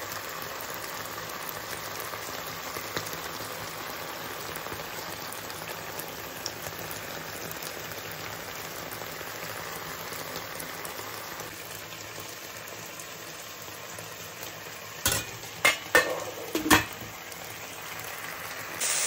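Diced chicken breast frying in a little sunflower oil in a pan, a steady sizzle. About fifteen seconds in come a few sharp knocks, the loudest sounds here.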